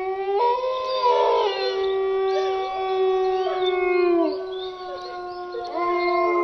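Several wolves howling together: long held calls that overlap, each sliding down as it fades, with a fresh howl rising near the end.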